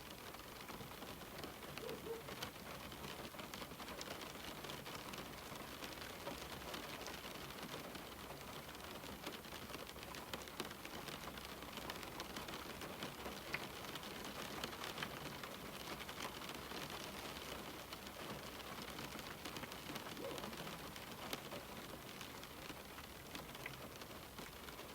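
Steady rain falling on a window pane: an even hiss of rainfall with many small drop ticks on the glass.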